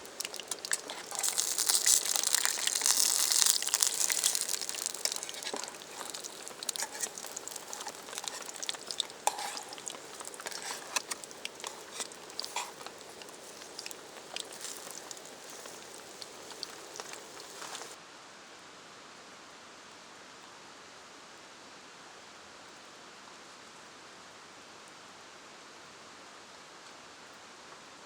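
Food frying over a campfire: a loud sizzle comes in about a second in, then fades slowly over the next dozen seconds with scattered pops and crackles. It cuts off sharply at about 18 seconds, leaving a steady, even hiss.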